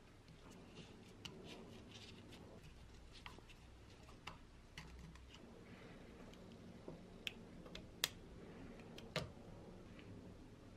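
Faint, scattered clicks and light taps of small hard parts being handled, about a dozen in all, the sharpest about eight seconds in and again just after nine.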